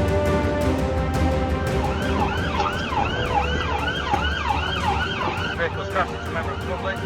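A police car siren in yelp mode, a rapid rising-and-falling wail of about two cycles a second, starts about two seconds in over a steady low vehicle rumble. The background music that precedes it fades under it.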